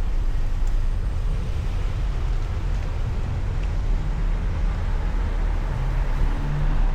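Steady low rumble of wind and road noise on the microphone of a moving bicycle, with traffic noise mixed in; a faint low engine hum comes in near the end.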